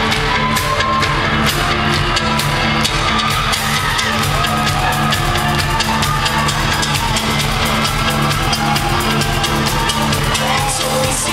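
Live rock band playing loud and steady, a drum kit keeping a regular beat under guitar and keyboard lines.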